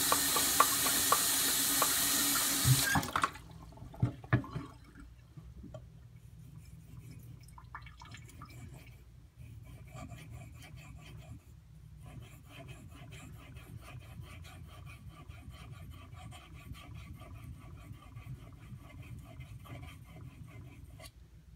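Water running from a tap, shut off abruptly about three seconds in. A few sharp knocks follow, then faint rubbing and ticking.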